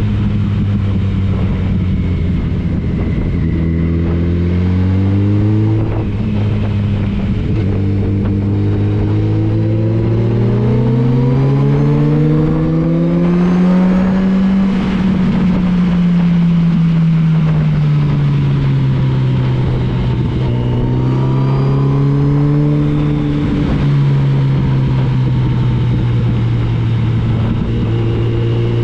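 Motorcycle engine on the move, its pitch stepping up through gear changes in the first few seconds, then rising to a peak about halfway through, falling away and levelling off to a steady cruise near the end.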